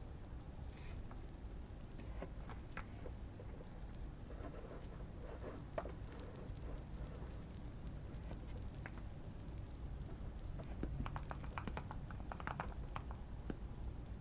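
Typing on a modded Keychron Q1 mechanical keyboard: irregular soft key clicks, bunched into quick runs about three-quarters of the way through. Light fireplace crackling runs underneath.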